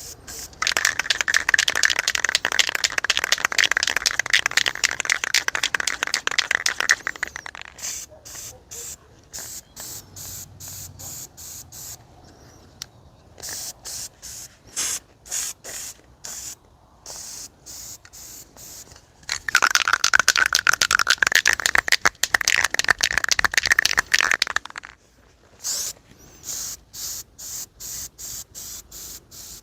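Aerosol spray can of flat black enamel paint hissing in two long sprays, with rapid, stuttering short spurts in between. The nozzle tip is fouled with paint, so the spray comes out unevenly.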